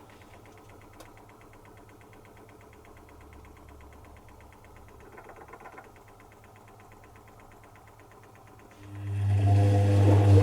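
Zanussi FC1000 compact washing machine partway through its cycle. A quiet stretch with a faint, rapid, even ticking, then a loud steady mains hum cuts back in about nine seconds in.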